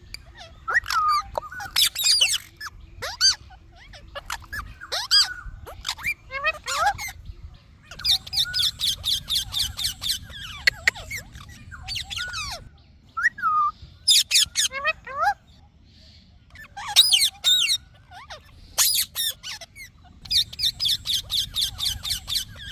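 Indian ringneck parrot calling and chattering: repeated harsh, rapidly pulsed screech trains mixed with short sliding whistle-like notes, coming in bursts with brief pauses between them.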